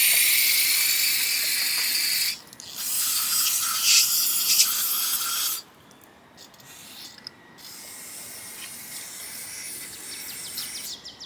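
Pressurised spray hissing on carburetor parts during cleaning: one long blast that cuts off about two seconds in, then a second after a brief break that stops suddenly about five and a half seconds in. Afterwards light clicks and rattles of small parts being handled.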